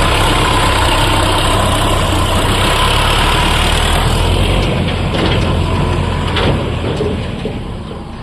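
Sonalika tractor's diesel engine running steadily with a deep low hum. It fades off over the last few seconds.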